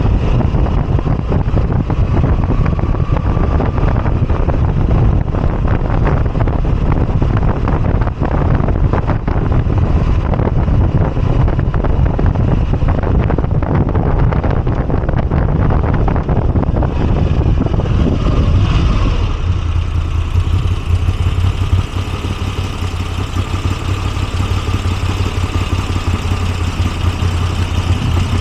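Moto Guzzi V85TT's air-cooled V-twin running on the move, with heavy wind rumble on the microphone. About two-thirds in, the rumble drops away and the engine's steady low note comes through, as at slow speed or idle.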